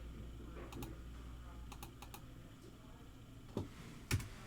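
Faint typing on a computer keyboard, scattered light key clicks, with a few sharper knocks near the end.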